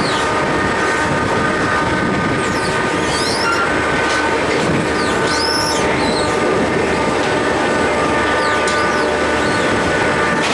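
El Chepe passenger train running along a curve: a steady rumble of wheels on rail with the wheels squealing in several high, steady tones throughout, and a few brief higher squeals sliding up and down in the middle.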